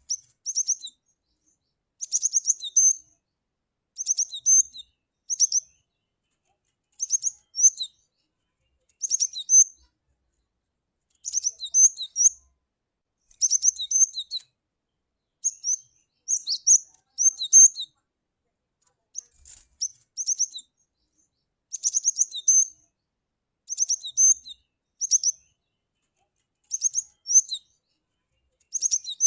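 Cinereous tit (glatik batu) calling: short high-pitched phrases of a few quick notes each, repeated about every two seconds.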